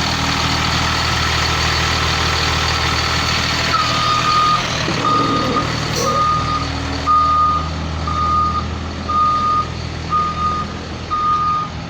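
Blue Bird All American bus's engine running, then about four seconds in its reversing alarm starts: a high single-pitched beep repeating about once a second as the bus backs up.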